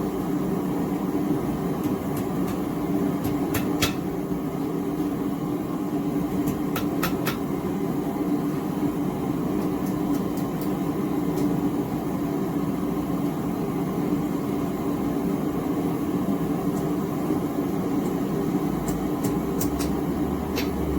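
Small gas forge's burner running with a steady drone. A few faint sharp clicks come in small groups, about 3.5 and 7 seconds in and again near the end.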